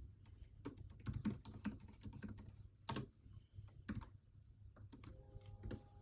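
Typing on a computer keyboard: irregular runs of keystrokes with a few louder single key presses.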